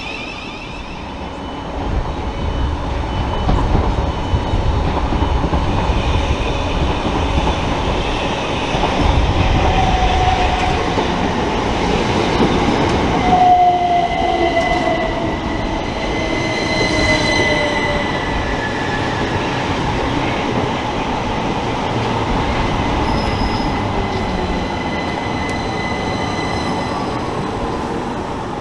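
Electric multiple-unit passenger train running through the station, a continuous rumble that builds about two seconds in. Midway it carries high whining tones that fall in pitch.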